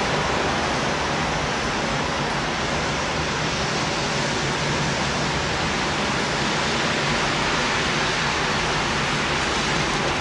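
Steady cabin noise inside an Airbus A318 airliner: an even rush of air with a low engine hum underneath, holding level throughout.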